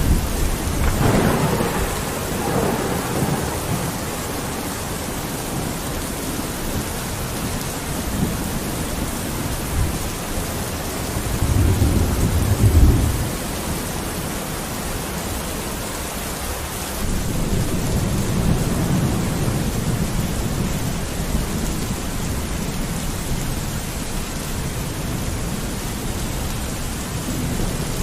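Steady rain falling on a window, with low rolls of thunder: one near the start, the loudest about twelve seconds in, and a longer, softer roll around eighteen to twenty seconds.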